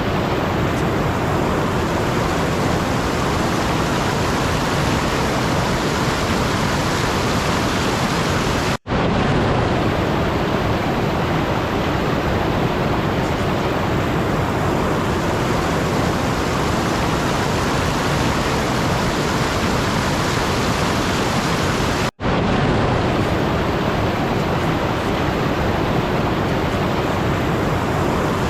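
A steady, even rushing noise with no rhythm or tone, dropping out for an instant twice.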